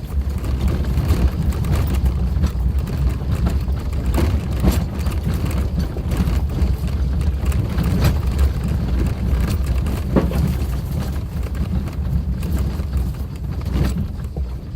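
Suzuki Jimny driving on an unpaved forest road: a steady low drone of engine and road noise, with many scattered knocks and rattles.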